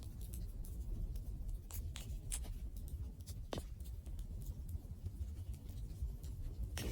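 Wood fire crackling: scattered sharp pops and snaps over a steady low rumble of the burning fire, with a louder hissing flare-up starting near the end.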